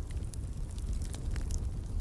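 Wood fire in a fireplace crackling: scattered sharp pops and snaps over a low, steady rumble.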